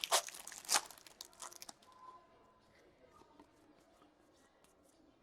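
Packaging of a box of hockey trading cards being torn open, a burst of tearing and crinkling in the first couple of seconds, then only faint occasional ticks and rustles.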